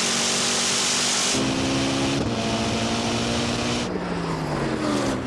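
Supercars running flat out, with engine drone under heavy wind and tyre rush. The engine note shifts a couple of times, then the rush drops away near the end and the engine pitch falls as the cars come off the throttle and slow down.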